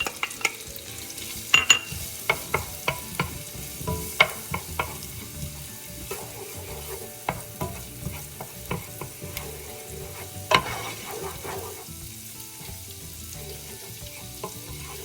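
Minced garlic sizzling in melted butter and oil in a pan on medium heat, with a utensil clicking and knocking against the pan as it is stirred. The clicks are denser in the first half, with one louder knock about two-thirds of the way through.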